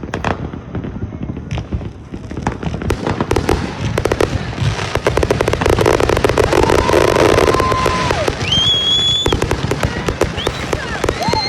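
Consumer fireworks going off: a dense run of crackling and popping, with a steady whistling tone partway through followed by a short higher whistle.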